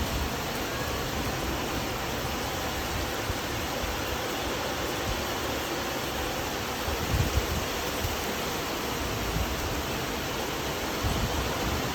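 Heavy rain pouring down steadily: a dense, even hiss, with brief low rumbles about seven and eleven seconds in.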